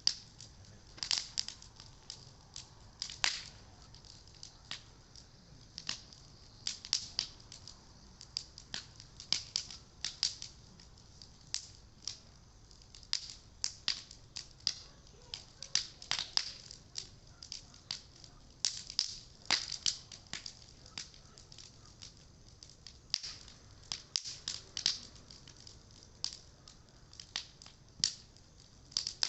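Campfire of Japanese cedar (sugi) lumber crackling, with irregular sharp pops coming several times a second.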